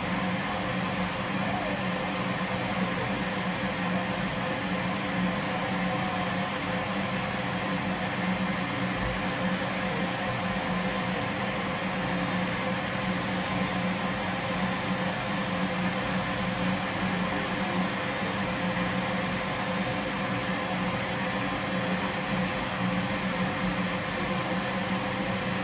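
Vacuum cleaner running steadily: a constant motor hum over an even hiss, with no change in pitch or level.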